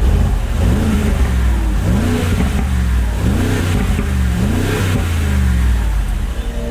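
Mercedes-AMG G63's twin-turbo V8 and exhaust being revved while stationary: four quick blips about a second apart, each rising and falling back, over the idle.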